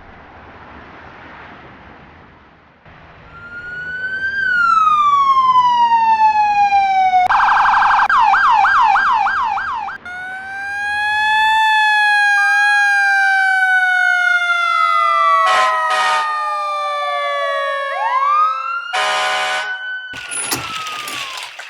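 Electronic emergency-vehicle siren sounds, several overlapping: a falling wail starts a few seconds in, then a fast warbling yelp, then a mix of falling and rising wails with a few short crackly bursts near the end.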